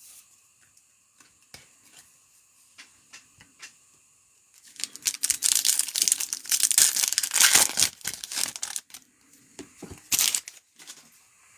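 Trading-card pack wrapper being torn open and crinkled: after a few light handling clicks, about four seconds of loud tearing and crackling starting about five seconds in, with one more short crinkle near the end.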